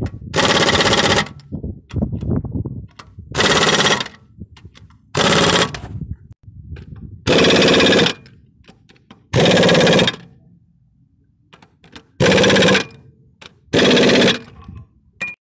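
Impact wrench run in seven short rattling bursts, about two seconds apart, tightening bolts on an eight-cylinder diesel engine after the pistons are fitted.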